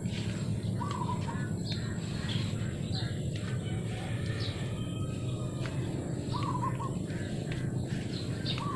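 Small birds chirping, short calls repeated every few seconds, over a steady low rumble.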